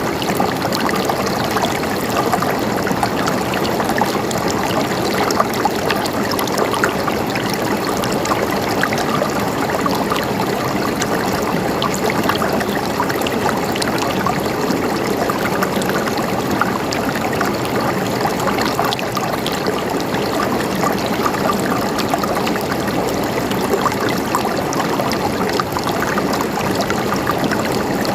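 River water flowing steadily over rocks, a constant rushing and trickling with fine splashy detail.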